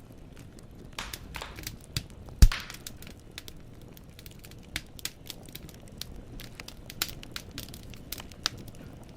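Wood fire in a fireplace crackling, the burning logs snapping and popping at irregular intervals over a low steady rumble. One much louder pop comes about two and a half seconds in.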